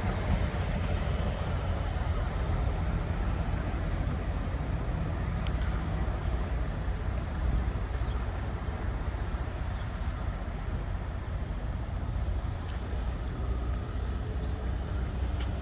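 A vehicle engine running steadily, a low, even rumble with a few faint clicks.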